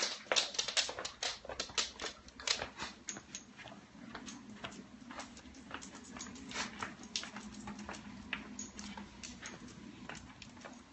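A pet dog making small sounds while it waits to do its tricks: a run of quick, sharp clicks and ticks, thick at first and thinning out. About four seconds in a faint, low, steady whine starts.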